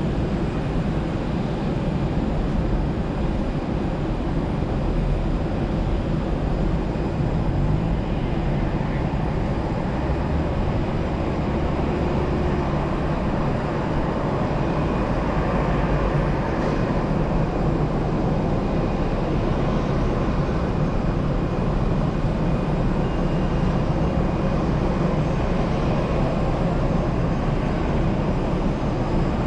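Steady aircraft noise: a continuous drone with a deep rumble and a faint high whine, unchanging throughout.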